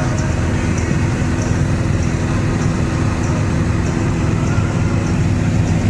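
Light single-engine plane's piston engine and propeller droning steadily at cruise, heard inside the cockpit.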